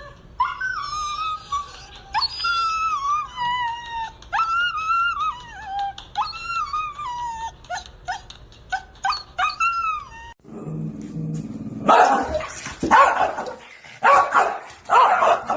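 A dog whining: a string of high, falling whimpering cries over about ten seconds. After a short break, four loud, harsh, noisy bursts follow near the end.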